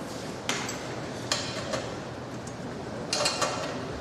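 Metal hand tools and engine parts clinking and tapping against each other: single sharp clinks about half a second in and just after a second, then a quick cluster of them near three seconds, over steady shop background noise.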